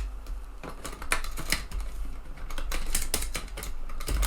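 Irregular sharp plastic-and-metal clicks and clacks from a TEAC FD-235F 3.5-inch floppy drive's eject mechanism being worked by hand: the mechanism is binding and too tight to eject. A steady low hum runs underneath.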